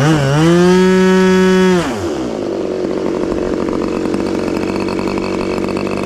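Magnum XLS 61 two-stroke glow engine on an RC Cessna 182, briefly revved up to a higher, louder pitch for a little under two seconds, then dropping back to a steady lower-speed run.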